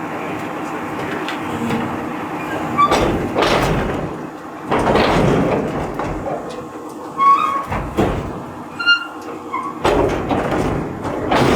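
Garbage truck at work: a string of loud clattering, rushing bursts every two to three seconds, with short high squeaks between them.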